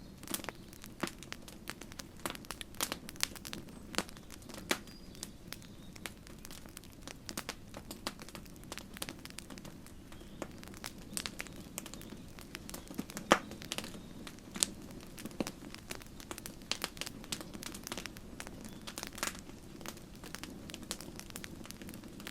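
Campfire crackling: irregular snaps and pops of burning wood over a steady low rumble of the flames, with one louder pop about thirteen seconds in.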